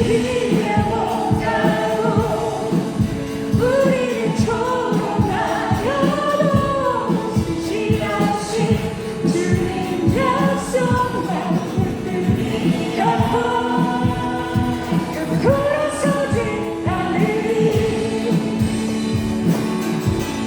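Praise team singing a worship song with a band behind it, the voices holding and bending long notes over a steady beat.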